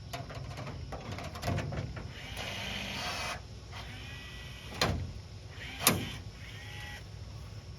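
Body-panel work: a small power tool runs for about a second, and a few sharp metallic knocks sound, the loudest near the end.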